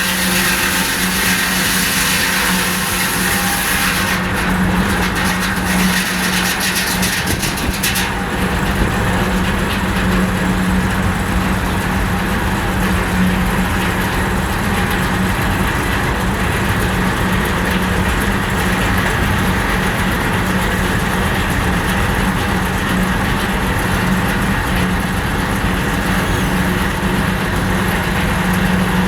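Sawmill machinery running steadily, a constant drone from its engine and spinning saw. A high hiss heard at first drops away between about four and eight seconds in.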